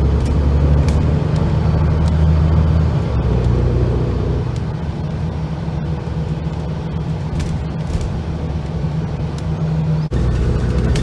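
Steady, loud low engine drone with a constant hum. It eases slightly after a few seconds and cuts out for an instant about ten seconds in.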